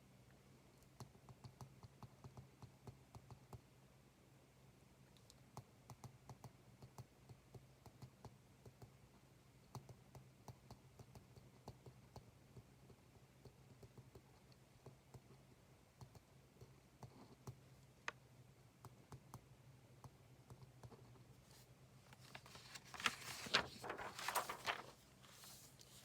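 Faint desk sounds of someone studying: a scatter of small, light clicks and taps, a few a second, then a louder rustling scrape for a couple of seconds near the end.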